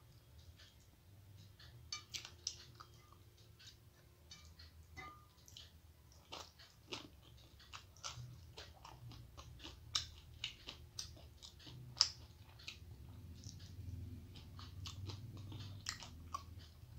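Close-up eating sounds: a person chewing a mouthful of rice and fish curry, with many short, irregular wet clicks and smacks, the sharpest about ten and twelve seconds in, over a steady low hum.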